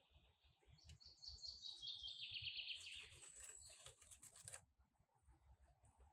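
A small songbird singing faintly in forest: a run of quick notes falling in pitch, ending in a fast, high trill that stops abruptly about four and a half seconds in.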